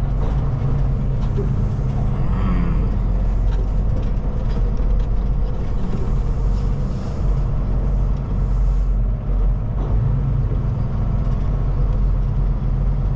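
Semi-truck engine running steadily with road noise, heard from inside the cab while cruising.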